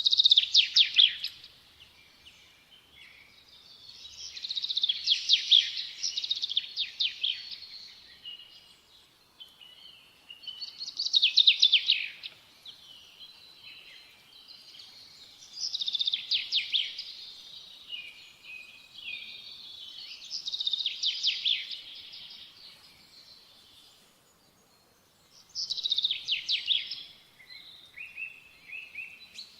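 A songbird singing: short phrases of rapid high notes repeated about every five seconds, with fainter chirps in between.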